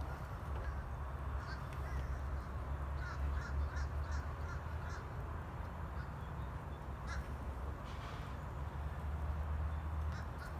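Birds calling in short calls: a quick run of about five, three to five seconds in, and single calls now and then, over a steady low rumble.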